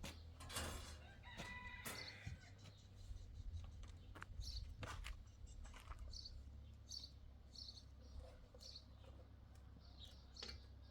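Farmyard chickens: a rooster's call about a second and a half in, with short high bird chirps repeating throughout.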